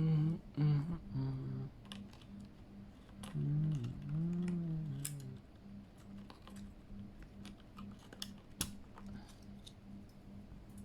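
Scattered light clicks and taps of a Keychron K8 mechanical keyboard and its keycaps being handled. A low voice is heard briefly, twice, in the first half.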